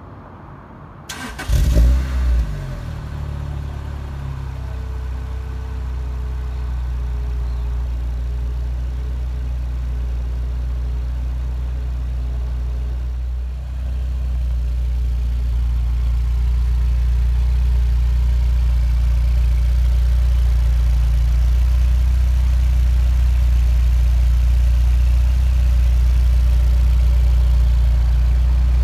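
2005 Lotus Elise's 1.8-litre Toyota four-cylinder engine starting about a second in, flaring briefly, then settling into a steady idle.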